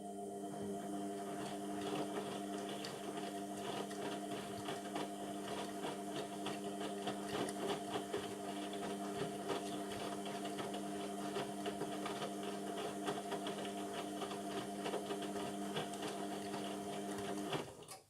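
Indesit MTWC71252WUK washing machine's drum motor turning the drum at a steady wash speed, a constant motor hum over the crackle of the tumbling load. It stops suddenly near the end, as the drum pauses between tumbles.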